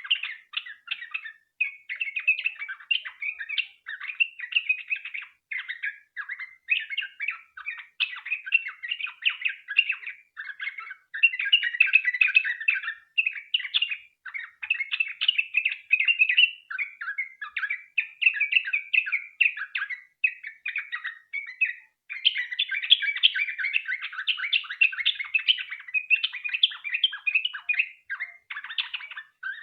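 Yellow-vented bulbul (trucukan) in full song: a long, fast, nearly unbroken run of chattering, bubbling phrases, with one short break about two-thirds of the way through.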